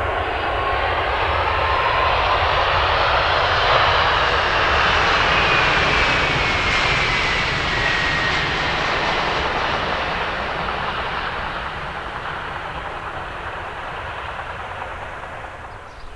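Aircraft engines of a fixed-wing airliner passing close by: a loud rushing noise that swells, peaks about five seconds in and then fades away, with a whine that drops in pitch as the plane goes past.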